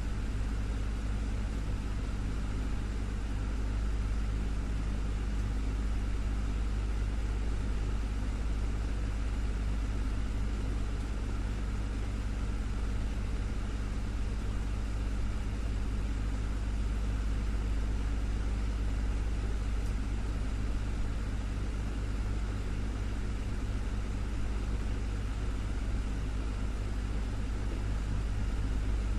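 Desktop fan running steadily: a constant motor hum with a low drone and even airflow noise.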